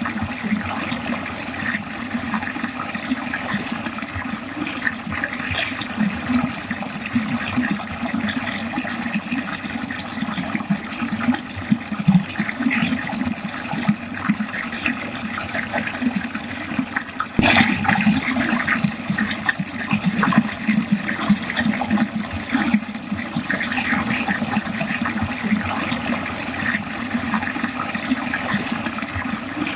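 Water running steadily down a drain, with a continuous flow and a fluttering texture, and one brief louder splash about seventeen seconds in.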